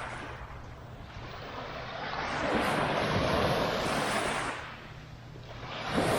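Small waves breaking and washing up the shore. One wave builds about two seconds in and dies away, and the next arrives near the end.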